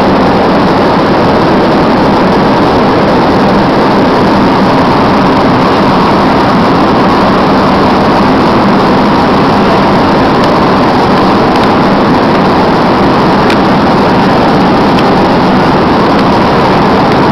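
Loud, steady engine and airflow noise inside a passenger airplane's cabin, with a faint steady hum underneath.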